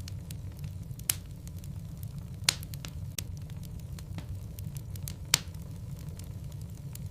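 Wood logs burning in a fireplace, crackling with many small clicks and three louder sharp pops about one, two and a half and five seconds in, over a steady low rumble.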